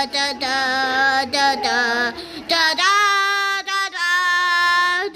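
A child singing a wordless tune in held notes, the last one held for about two seconds.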